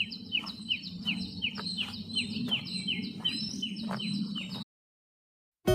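Birds calling: a rapid series of short, high chirps that each drop in pitch, about three a second, over a steady low rumble, with a few sharp clicks among them. The sound cuts off suddenly about four and a half seconds in, and guitar music starts at the very end.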